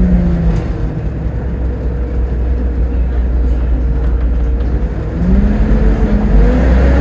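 Volvo B7TL double-decker bus's diesel drivetrain: a falling whine dies away in the first second, a low steady rumble follows, then about five seconds in a rising whine as the bus pulls away and accelerates.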